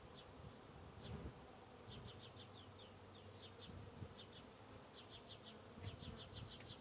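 Faint buzzing of honey bees, with short high chirps repeating in quick runs of three to five in the background.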